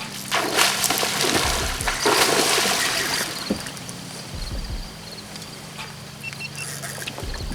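Water splashing and sloshing as a hooked salmon is landed, loudest from about half a second to three seconds in, then settling to a light trickle.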